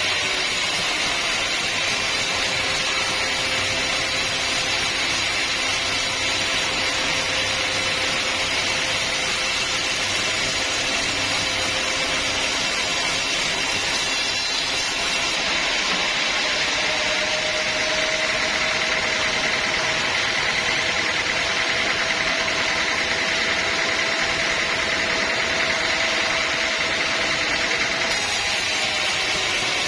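Sawmill saw running steadily, cutting through a teak log, with a faint steady whine under the noise.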